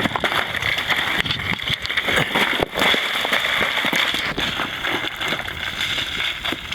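Loose rock and gravel crackling and crunching in a dense run of small clicks as a boulder is worked loose to be rolled downhill, over a steady hiss.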